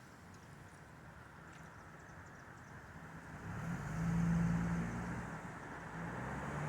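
A motor vehicle passing. Its engine and tyre hum swells to its loudest about four seconds in, then eases off, over a steady hiss of outdoor noise.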